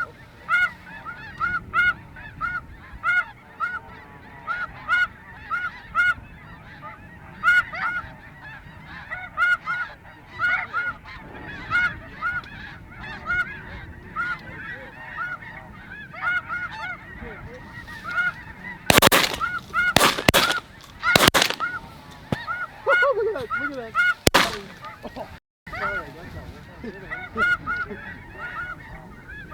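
Snow geese calling: many high-pitched honks overlapping without pause. About two-thirds of the way through, a volley of about five shotgun shots comes in roughly five seconds.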